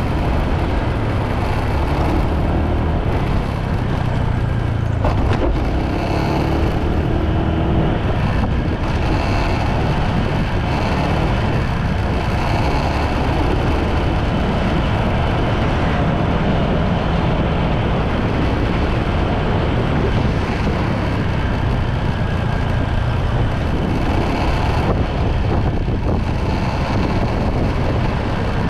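Motorbike riding along the road: its engine running steadily under the rush of wind and road noise on the microphone, with a faint engine note that rises and falls in pitch.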